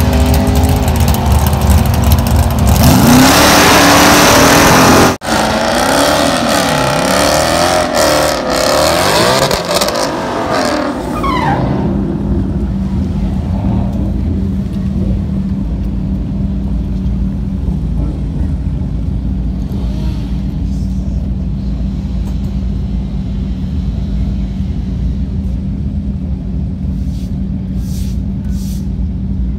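Drag cars at the starting line: loud engine revving with a wavering pitch during a burnout for the first ten seconds or so, with a sharp break about five seconds in. After that the engines settle into a steady idle.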